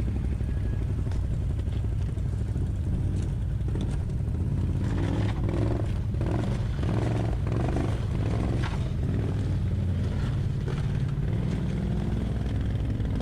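ATV engine idling steadily. Scattered clanks and knocks come over it between about four and nine seconds in.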